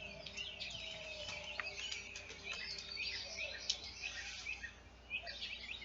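Several songbirds singing and chirping at once, many short high-pitched calls overlapping.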